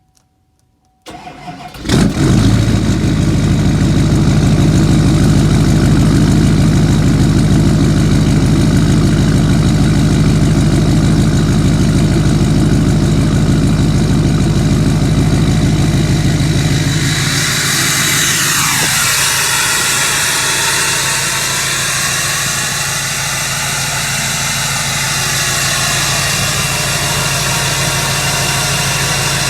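2009 Duramax LMM 6.6-litre V8 turbodiesel cold-started: a brief crank about a second in, then it catches and runs at a steady, loud idle. About two-thirds of the way through the sound shifts, with a whine falling steeply in pitch and more hiss, and the engine settles into a steady idle.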